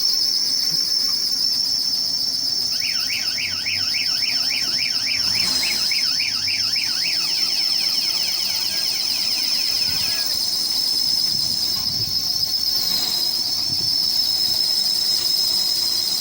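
Insects, crickets or cicadas, shrilling in a steady high-pitched pulsing drone. From about three seconds in to about ten seconds in, a rapidly repeated rising-and-falling call of about four cycles a second sounds over it.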